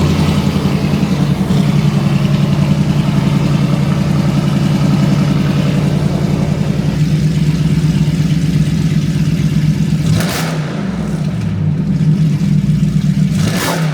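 A truck's engine running loud and steady just after start-up, with two short, sharp bursts of sound about ten seconds in and near the end.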